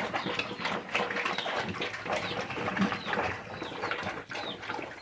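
Piglets fighting, a busy jumble of grunts, squeals and scuffling, with short high chirps repeating throughout.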